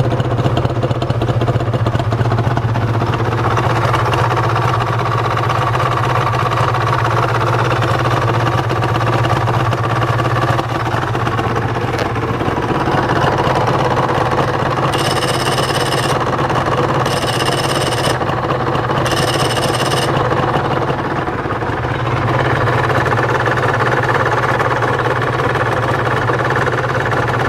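Suzuki RGV-γ250SP's two-stroke V-twin engine idling steadily through its exhaust. Midway there are three high electronic beeps, each about a second long.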